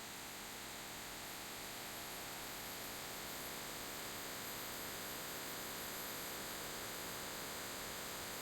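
Steady, even rush of the Crystal Cascade waterfall, heard as a constant hiss.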